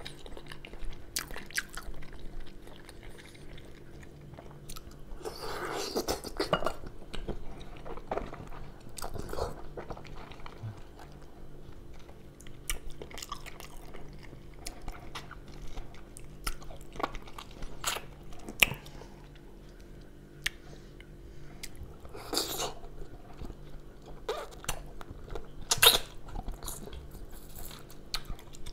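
Close-miked chewing and biting of stewed lamb eaten off the bone by hand: wet mouth clicks and smacks, with a few longer, louder bursts about six seconds in and again about twenty-two seconds in.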